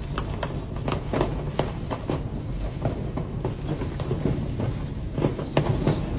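Consumer fireworks going off inside a burning fireworks store: a run of sharp pops and cracks at uneven intervals over a steady low rumble, with a faint falling whistle partway through.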